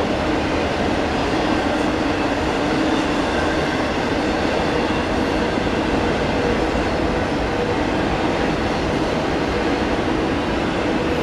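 Union Pacific double-stack intermodal freight train rolling steadily past, a continuous rumble of container cars on the rails.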